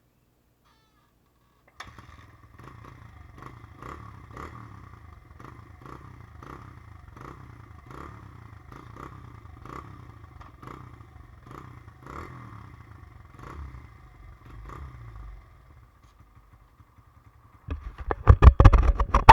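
2005 Honda CRF100F's single-cylinder four-stroke engine kick-started cold on half choke, catching about two seconds in and idling unevenly with a regular surge before dying out; near the end a short burst of loud clattering. It won't hold an idle until warm, which the owner puts down to a nearly empty fuel tank.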